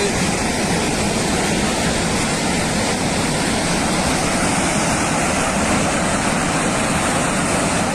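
Torrent of floodwater rushing down a mountainside: a loud, steady, unbroken rushing noise.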